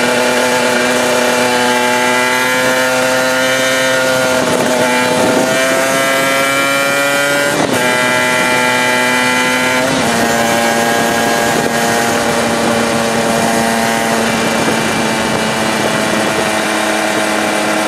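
Performance-modified Aprilia RS125's 125 cc single-cylinder two-stroke engine running under way, its pitch climbing slowly for the first seven seconds or so. The note breaks briefly about eight seconds in, then holds steady at a slightly lower pitch from about ten seconds, over a steady rush of wind.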